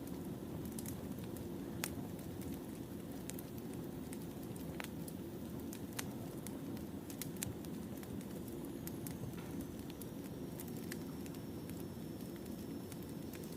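Wood fire burning: a steady low rumble with irregular sharp pops and snaps of burning firewood, and a faint thin high whistle in the second half.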